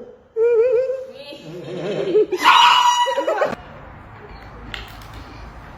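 Voices laughing and shrieking, with wavering high calls and a loud shrill burst that cuts off suddenly about three and a half seconds in, leaving a low steady hum.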